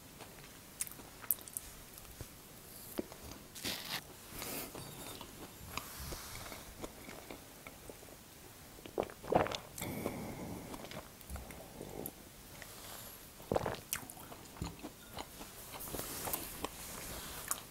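Close-miked eating sounds: chewing mouthfuls of crumbly nut cake, with scattered small clicks and a fork scraping the wooden board, then sips from a large mug of tea about nine seconds in.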